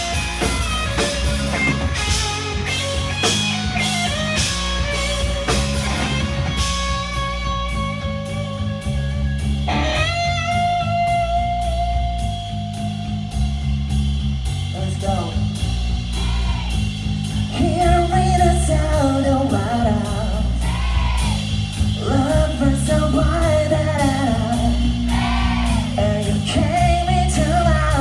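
Live rock band playing: electric guitar, bass and drum kit, with a lead vocal that holds one long note about ten seconds in.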